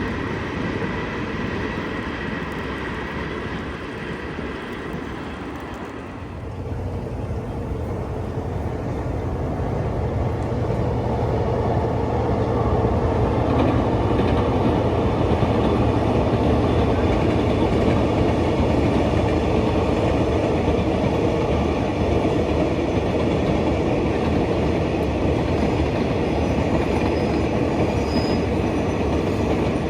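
A train passing on the railway line. It grows steadily louder from about six seconds in, then keeps running loud and steady with a low hum underneath.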